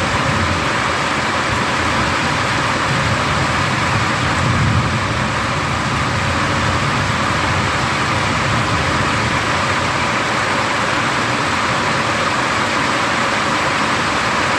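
Heavy rain from a thunderstorm, a steady loud hiss, with a low rumble swelling briefly about four to five seconds in.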